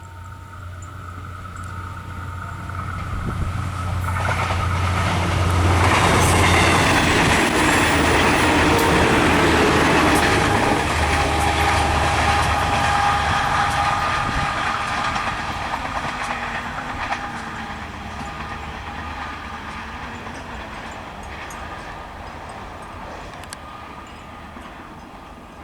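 A long train passing at speed: its rumble and wheel noise build up, peak a few seconds in, then fade slowly as it moves away.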